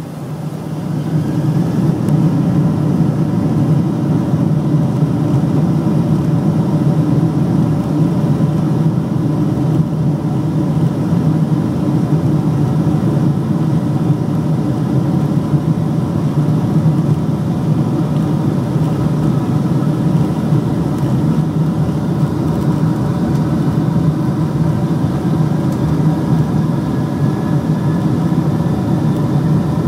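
Jet engines of a Boeing 747-438ER at take-off power. The engines swell about a second in and then hold a loud, steady rumble with whining tones, some of which climb slowly in pitch near the end.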